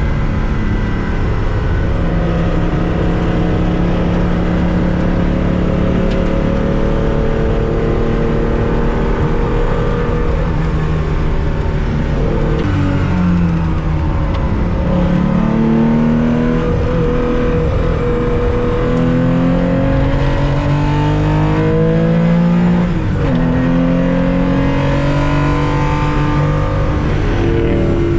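1965 Porsche 911 2.0's air-cooled flat-six engine heard onboard under racing load. It holds steady at high revs for the first dozen seconds, then the pitch drops and climbs again several times as the car shifts gears and accelerates.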